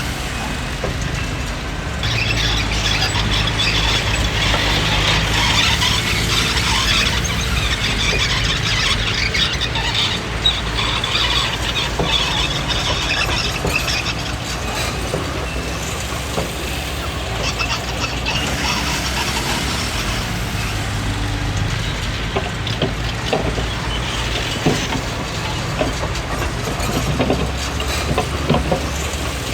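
Komatsu D20P crawler bulldozer working: its diesel engine running steadily under a high-pitched squealing from the steel tracks, with scattered knocks.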